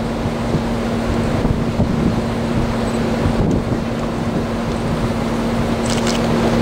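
Wind buffeting the microphone over a steady engine hum that holds one constant pitch.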